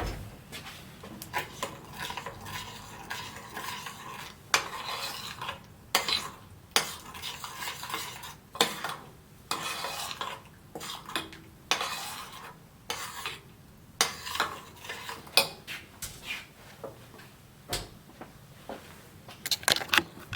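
A utensil stirring sauce in a pot, with irregular clinks and scrapes against the pot's sides as the sauce thickens.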